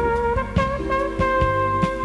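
Jazz band instrumental break: a brass section holds long notes over a stepping bass line and light drum hits.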